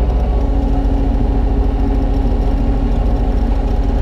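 Kubota U35-3 mini excavator's diesel engine running steadily, with a steady higher tone joining it from about half a second in until shortly before the end as the machine starts to work.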